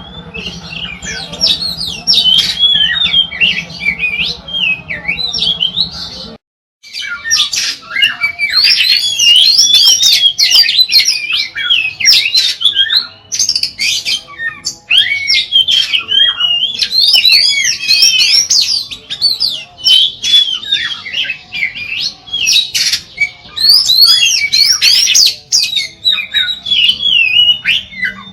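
Oriental magpie-robin (kacer) singing nonstop, a fast, varied run of whistled, gliding phrases. The song breaks off in a brief silence about six seconds in.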